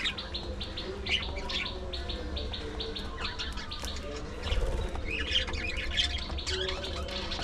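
A flock of budgerigars chattering: many quick, overlapping chirps that grow busier about halfway through, over a steady low rumble.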